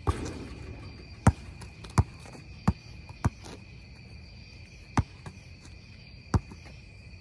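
Basketball bouncing on an outdoor court: seven sharp thuds at uneven spacing, about two in quick succession near the middle. A steady high insect trill, like crickets, runs underneath.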